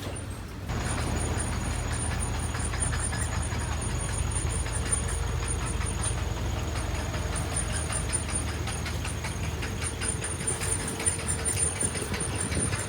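Heavy diesel engine of construction machinery running steadily, with a constant low drone throughout and no clear change in engine speed.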